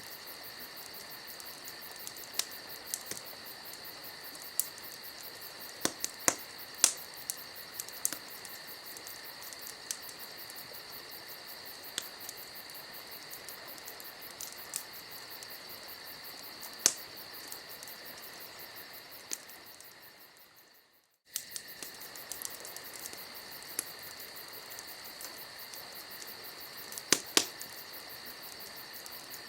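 Campfire ambience: a wood fire crackling with scattered sharp pops over crickets chirping steadily. About two-thirds of the way through, the sound fades out and then comes straight back in.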